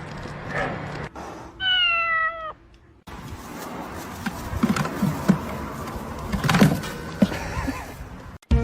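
A cat meowing once, a single drawn-out meow about one and a half seconds in, followed by scattered knocks and rustling.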